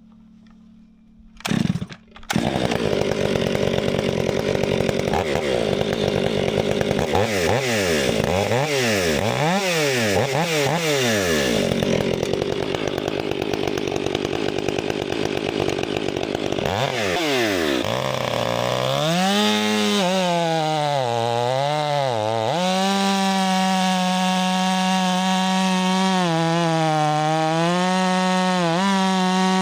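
Gas chainsaw starting about two seconds in, then revving up and down. It then cuts through an oak log, its engine note dipping and recovering under load.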